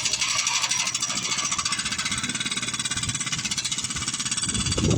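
Jackhammer breaking ground with a rapid, steady rattle.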